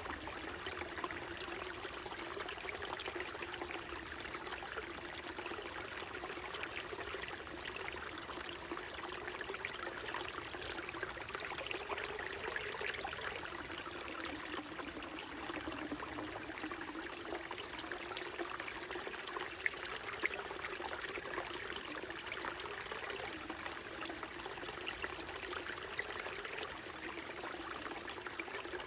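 Small mountain stream running steadily, a continuous babble of flowing water that holds at an even level throughout.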